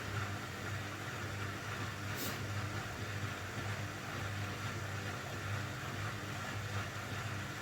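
Beko washing machine's motor and drum running in the tumble to balance the load before the final spin, a steady low hum. A brief hiss about two seconds in.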